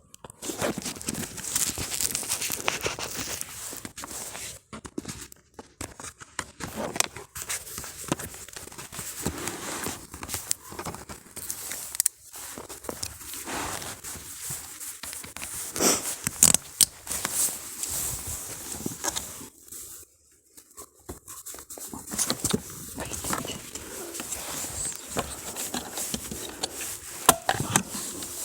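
Footsteps through forest undergrowth, with dry leaves and twigs crackling and rustling underfoot in an irregular run of sharp clicks.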